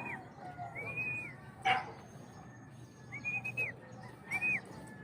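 Several short, high whistled bird calls, each rising then falling in pitch, with a sharp click about a second and a half in.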